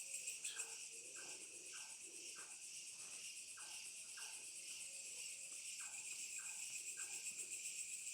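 Night chorus of crickets: a steady, pulsing high trill. Over it, frogs repeat a short falling call roughly twice a second.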